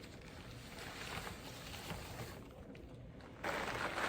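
Rustling and crinkling of plastic and paper supplies being handled and gathered up, louder for about a second near the end.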